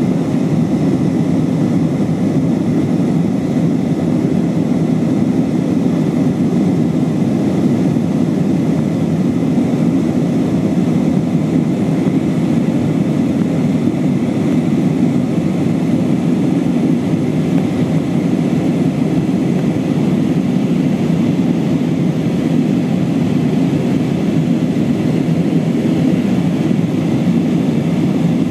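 Steady roar of engine and airflow noise heard inside the passenger cabin of an Airbus A320-232, with its IAE V2500 turbofans, during the climb after takeoff. The level is constant, with the noise deep and even.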